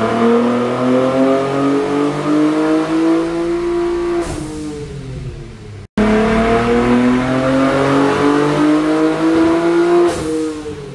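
Infiniti Q60 Red Sport's twin-turbo 3.0-litre VR30 V6 on full E85 with stock turbos, making wide-open-throttle pulls under hub-dyno load. Twice the engine note rises steadily in pitch for about four seconds, then falls away as the throttle closes.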